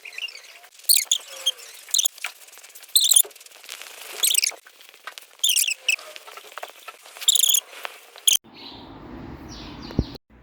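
Bird-like high-pitched chirping in short bursts every one to two seconds. About eight seconds in it cuts off abruptly to a low steady rumble and hiss.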